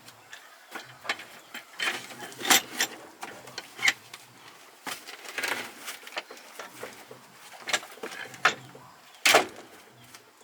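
Irregular clicks, taps and sharp knocks of hand work on hard parts, the loudest knocks about two and a half seconds in and shortly before the end.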